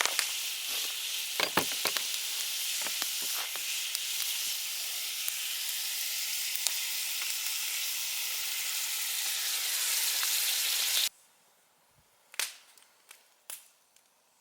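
Food sizzling and frying in a Dutch oven over an open fire, with a few clicks and knocks of stirring. The sizzle cuts off suddenly about eleven seconds in, leaving only a few faint ticks.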